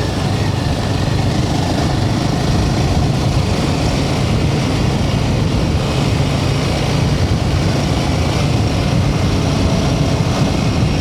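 Royal Enfield Himalayan 450's single-cylinder engine running steadily at riding speed, under a constant rush of wind noise.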